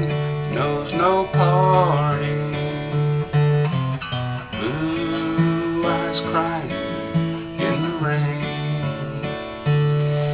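Acoustic guitar playing the closing bars of a country ballad: strummed chords with bass-note runs walking between them.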